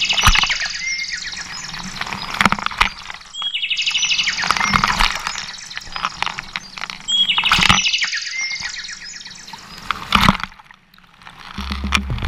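A songbird singing the same song three times, about every three and a half seconds. Each song opens with a short whistled note and runs into a rapid string of high notes.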